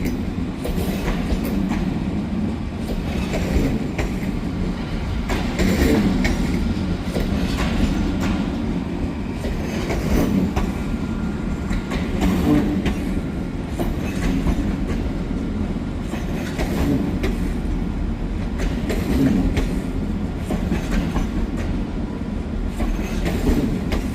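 Train running past with a steady low rumble and a clatter of wheels over rail joints.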